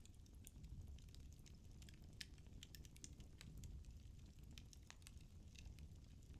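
Firewood burning in a fireplace: faint, irregular crackles and pops, several a second, over a soft low rumble.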